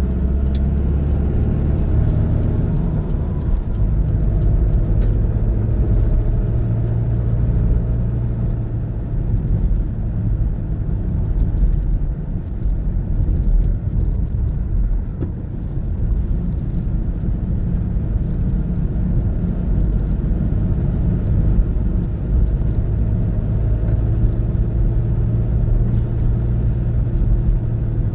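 A car driving on a mountain road, with a steady low rumble of engine and tyre noise. The engine's hum weakens for a while in the middle and returns near the end.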